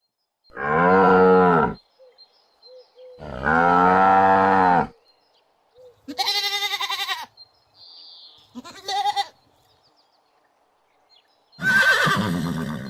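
A series of farm animal calls. First come two long, low moos from a cow, then two shorter, higher bleats with a quavering, wavering pitch, and another loud call begins near the end.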